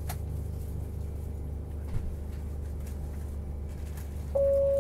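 Steady low hum and rumble inside a Tilt Train carriage rolling slowly through a station. Near the end a loud, clear chime note starts and holds, like the start of an onboard announcement chime.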